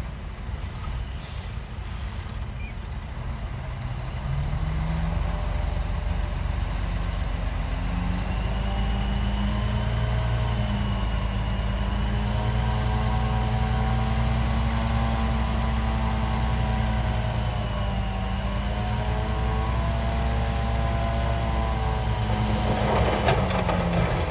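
Heavy diesel engine of earthmoving machinery running. Its revs climb about four seconds in and then hold high and steady, with a faint high whine over it, and a short hiss comes near the end.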